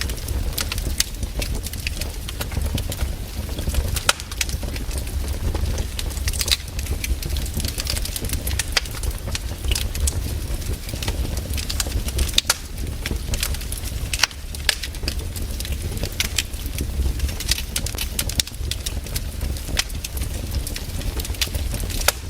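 Wood fire crackling in a fireplace: frequent, irregular sharp pops over a steady low rumble.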